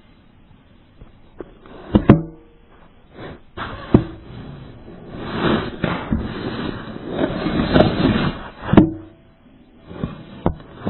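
A series of sharp knocks: two close together about two seconds in, one about four seconds in and one near nine seconds, with a rough, noisy stretch between the last two.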